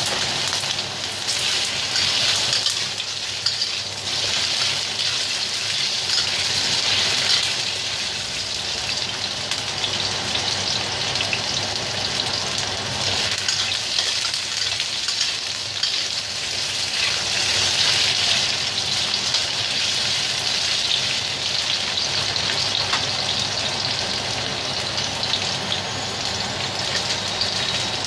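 Potato and carrot chunks frying in hot cooking oil in a stainless steel wok: a steady crackling sizzle, with a spatula stirring them now and then.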